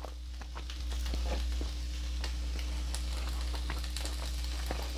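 Close-miked chewing: soft, wet crackles and irregular little clicks from the mouth, with a steady low hum underneath.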